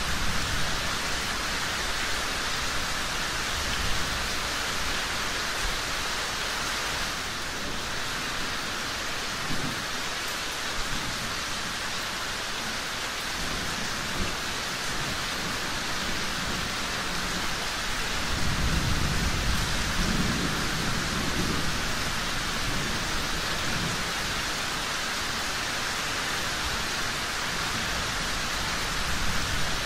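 Steady rain hissing, with low thunder rumbling in and out, the longest and loudest roll about two-thirds of the way through.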